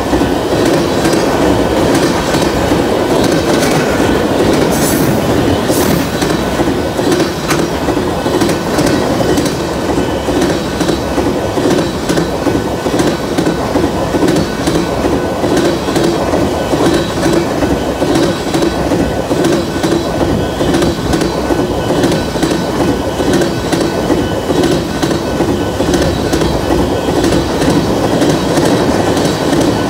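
Empty wind-turbine-blade flatcars of a BNSF freight train rolling past: steady, loud rumble and rattle of steel wheels on rail, with a rhythmic clickety-clack over the rail joints.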